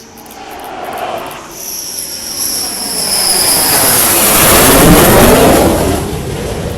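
Dassault Rafale fighter's twin M88 turbofans passing close by on landing: a high whine that drifts slightly down in pitch over a jet rush, which swells to its loudest about five seconds in and then starts to fade.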